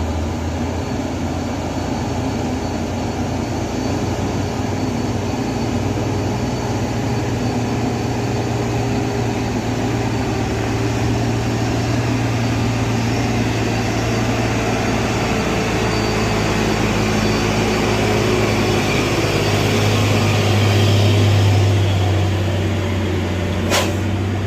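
Heavy diesel truck engine running with a steady low drone, growing louder about 20 seconds in; a single sharp click near the end.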